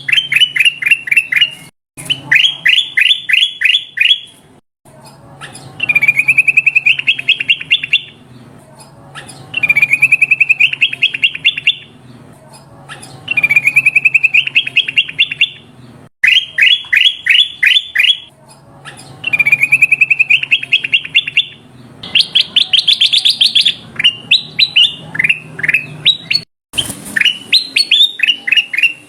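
Kutilang emas bulbul singing a long rolling song: phrase after phrase of rapid, repeated notes, each phrase about two seconds long with short pauses between. Near the end the phrases turn higher and more varied.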